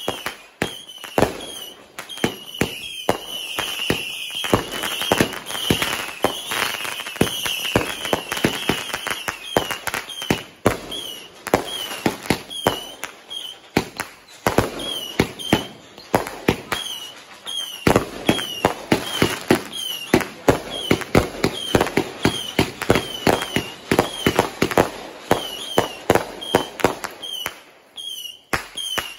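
Aerial fireworks bursting and crackling in rapid volleys: many sharp bangs a second, thinning out near the end.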